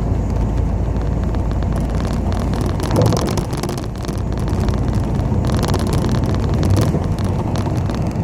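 Cabin sound of a moving city bus, the 8601: steady engine and road rumble with tyre hiss that swells and fades, and a single bump about three seconds in.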